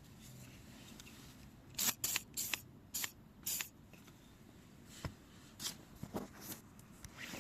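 WD-40 aerosol lubricant sprayed in about five short hissing bursts, to cure a squeaking car door. A few lighter clicks follow later.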